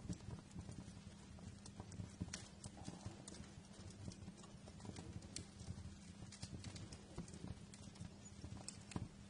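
Wood fire in a fireplace crackling: a dense low crackle with many sharp little pops at irregular intervals.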